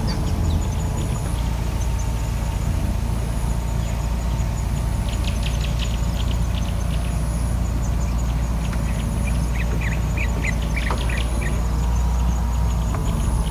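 Birds calling in two bursts of quick, short calls, about five seconds in and again near ten seconds, over a steady low rumble.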